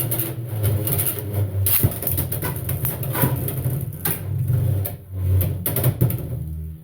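Two Beyblade X tops, Reaper Incendio T 4-70 K and Crest Leon, spinning in a plastic stadium: a steady whir broken by many sharp clacks as they hit each other and the walls. The whir drops away near the end.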